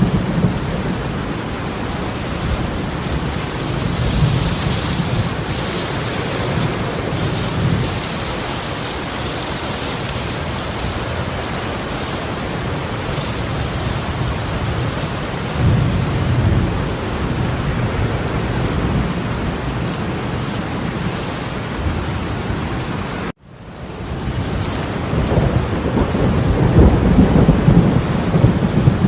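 Heavy torrential rain pouring steadily, with low rumbles swelling and fading several times. About two-thirds of the way through, the sound cuts out abruptly and then fades back in.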